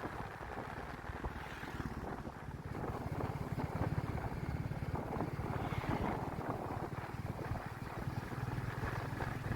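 Royal Enfield Classic 350's single-cylinder engine running under way, its exhaust thumping in a fast steady beat, getting a little louder about three seconds in.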